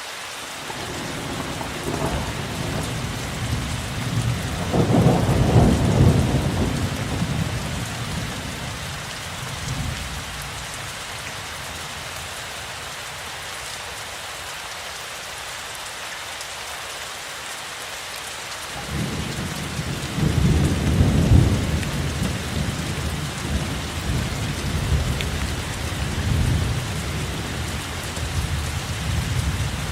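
Steady rain with two long rolls of low thunder. The first swells in the opening seconds, peaks about five seconds in and fades away by about eleven seconds. The second builds about nineteen seconds in, peaks a couple of seconds later, then keeps rumbling more softly.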